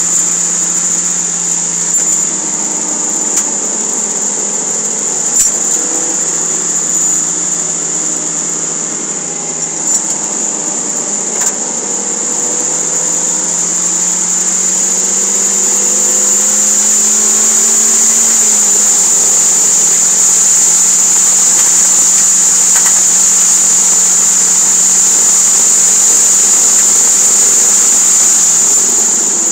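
Toyota MR2 Spyder's 1.8-litre four-cylinder engine under hard acceleration, heard from inside the cabin on a racetrack. The engine pitch climbs, drops at an upshift a little over halfway through, then holds at full throttle with wind and road noise, and eases off near the end. A steady high-pitched whine runs throughout.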